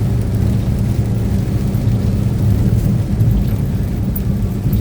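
Steady engine and road noise inside the cab of a moving truck, a constant low hum under an even hiss.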